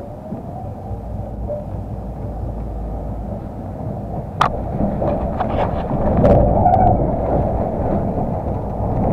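Tram running along the rails, heard from inside the car: a steady rumble of wheels and traction motor that grows louder about halfway through, with a sharp click near the middle.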